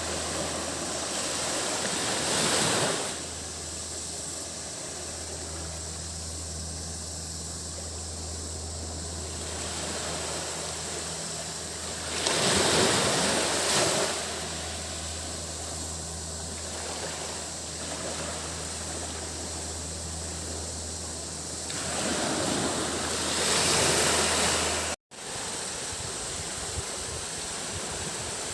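Surf breaking on a beach, three waves swelling and washing in about ten seconds apart, over a steady high hiss of cicadas and a low hum. The sound drops out for an instant near the end.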